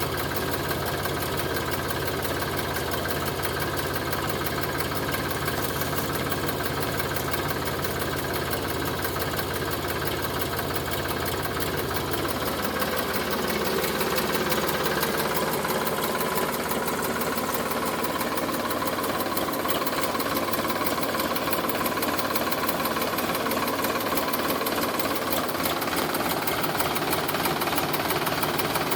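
Sonalika DI 745 tractor's diesel engine running steadily. About twelve seconds in, the deep low rumble fades and a higher tone comes up, a little louder.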